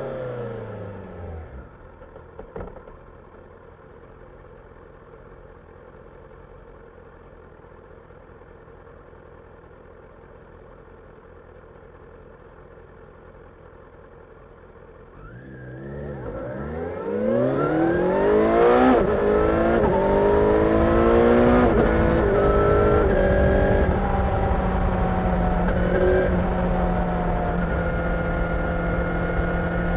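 Kawasaki Ninja 1000SX's inline-four engine dropping to a quiet idle, idling for about twelve seconds, then revving up as the bike pulls away, pitch climbing and stepping down through several upshifts. It then settles into steady cruising.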